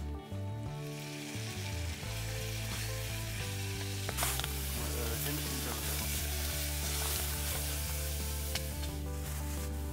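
Eggs and bacon sizzling in a frying pan, the hiss building about a second in and strongest from about four seconds on, with a few sharp pops. Background music with sustained notes plays throughout.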